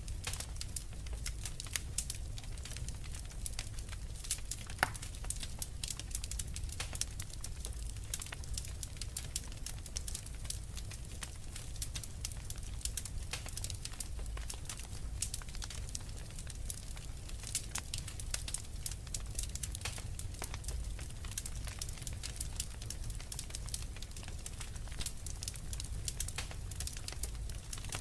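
Wood fire in a fireplace crackling, with dense irregular pops and snaps over a low rumble of the burning, and one sharper pop about five seconds in.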